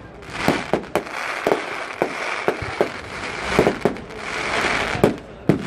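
Fireworks going off: an irregular string of about a dozen sharp bangs and cracks over a continuous hiss.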